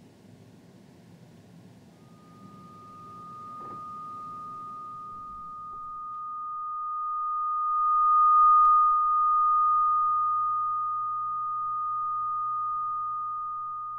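A single steady, high-pitched pure electronic tone fades in about two seconds in, swells to its loudest a little past the middle, and then holds on. Faint room hiss sits under the first few seconds.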